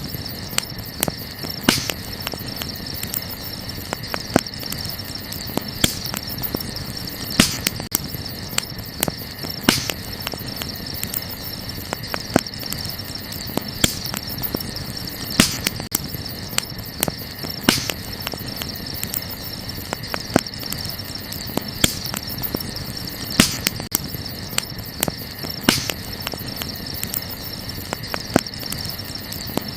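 Wood fire crackling, with sharp pops at irregular intervals over a soft steady hiss, against a steady high insect trill.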